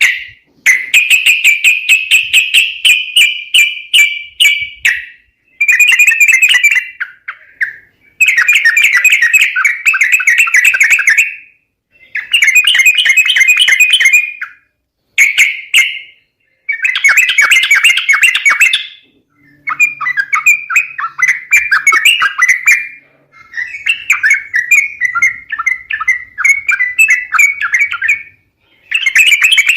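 Yellow-vented bulbul (trucuk) calls played as a bird-trapping lure recording. The calls come as loud, bubbly chattering phrases a few seconds long, separated by short gaps.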